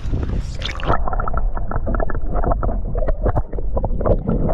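Water splashing with many sharp knocks as a largemouth bass is released beside the kayak, over wind buffeting the microphone; about a second in the sound turns muffled.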